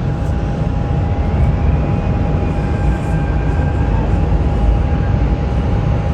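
Jet airliner engines running: a steady low rumble with a whine held on one pitch.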